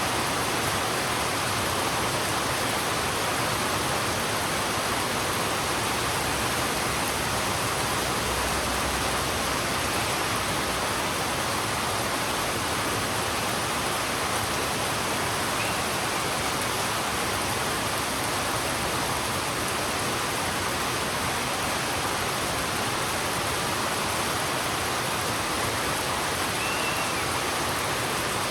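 Heavy rain falling on a road, a steady unbroken wash of water noise.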